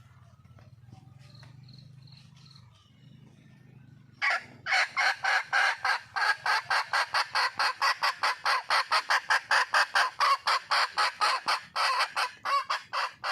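Junglefowl hen giving a long, rapid run of loud, sharp squawking calls, about five a second, starting about four seconds in after a faint low hum. It is the hen's call for a mate, used to draw in a male.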